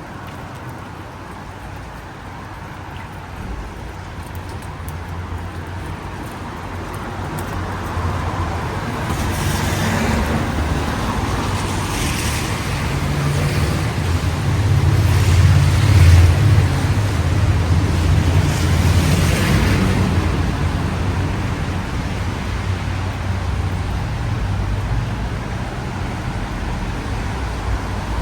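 Road traffic on a wet street: several vehicles pass, their tyres hissing on the wet road over a low engine rumble that swells to its loudest about halfway through, then eases.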